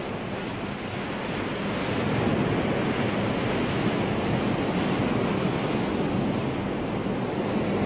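Steady rush of sea and wind, a dense continuous noise that grows a little louder about two seconds in, with a faint low hum underneath.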